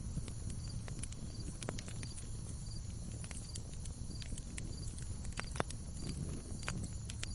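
Wood fire burning in a fireplace: a steady low rumble of the flames with irregular crackles and pops from the logs, one sharper pop a little past halfway.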